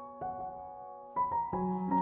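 Soft background piano music: single notes and chords struck at a slow, gentle pace and left to ring, with a brief lull before a few notes come in quick succession in the second half.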